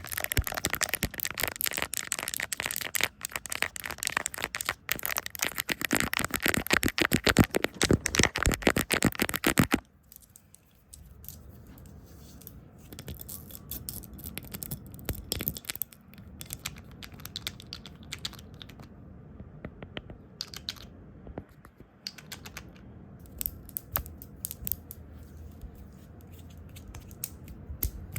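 Fast, close-miked ASMR trigger sounds: about ten seconds of dense, rapid scratching and rustling, which stops abruptly and gives way to quieter, scattered taps and clicks.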